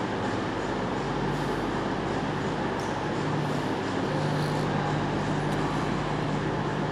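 A train's steady running noise, with a low hum that drops out and returns several times.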